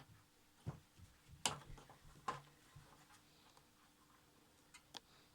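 A few light, sharp clicks and taps, spaced irregularly, from small hand tools and wires being handled during soldering work.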